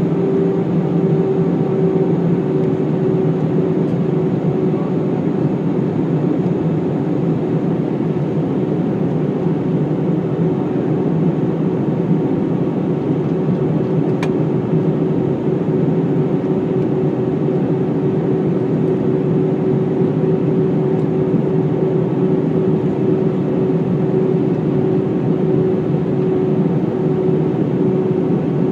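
Steady cabin noise inside an Airbus A319 in flight: engines and rushing air, with a constant hum tone over the roar. A single faint click about halfway through.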